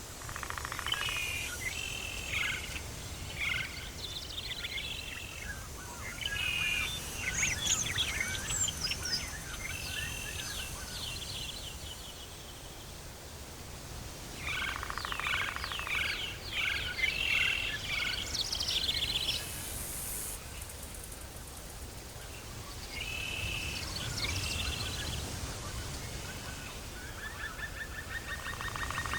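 Tropical forest ambience: birds calling in spells of quick chirps and trills, three times, over a steady low rumble.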